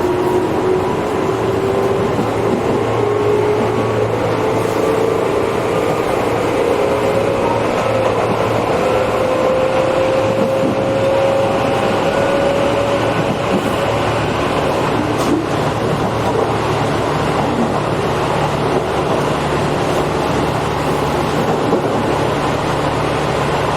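Tobu 8000 series electric train running, heard from inside the car. The traction motors' whine rises slowly in pitch through the first half as the train picks up speed, then fades under the steady rumble of the wheels on the rails.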